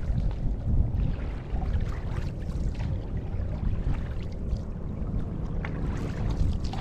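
Low, gusty rumble of wind buffeting the microphone over water lapping around an open canoe, with a faint steady engine drone showing near the end.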